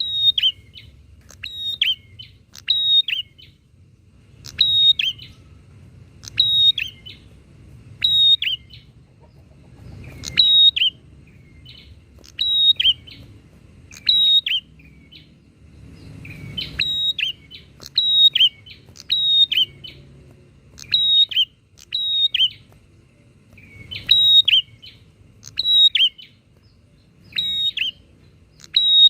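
Prenjak (prinia) songbirds calling back and forth in short, sharp, high chirping phrases, repeating about every one to two seconds and often in quick pairs.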